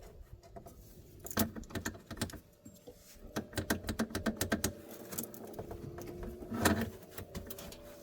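Hand tools clicking and clanking on the car's suspension parts: scattered knocks, a quick run of about eight clicks a second in the middle, and one louder knock near the end.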